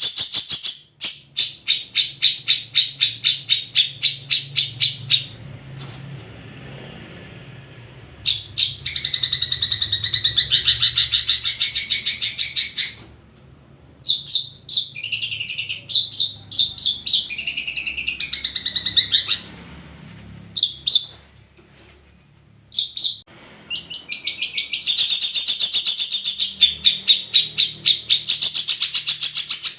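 Long-tailed shrike (cendet) singing: fast runs of rapidly repeated sharp chattering notes, broken by stretches of more varied warbling and a few short pauses.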